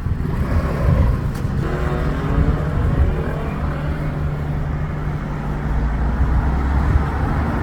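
Road traffic passing close by: a motor vehicle's engine with a steady low rumble, and a clearly pitched engine hum for a second or two about a second and a half in.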